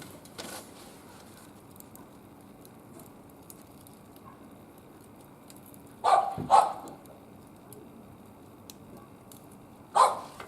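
A dog barking: two short barks about six seconds in and one more near the end, over the faint crackle of a wood fire.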